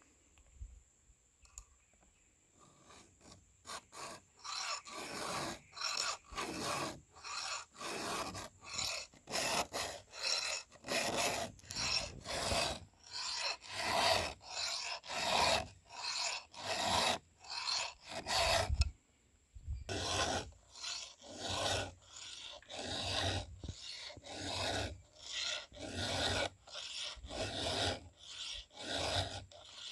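Hand file being stroked across a chainsaw chain's cutters, a steady rhythm of rasping strokes about one and a half a second. The strokes start a few seconds in and stop briefly about two-thirds of the way through before carrying on.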